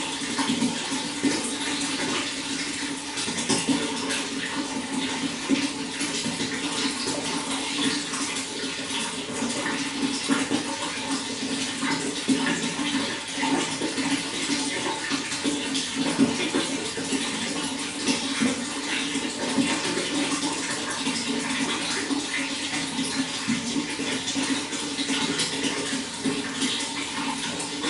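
Running water, flowing and splashing steadily without a break.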